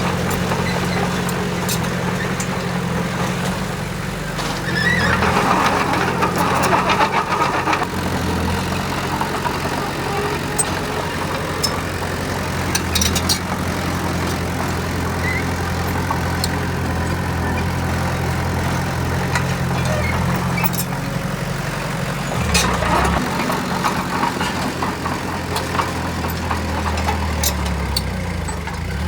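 Heavy diesel machinery engine running steadily with a low hum. Twice, at about five seconds in and again past twenty seconds, a louder, harsher sound rises over it for a few seconds.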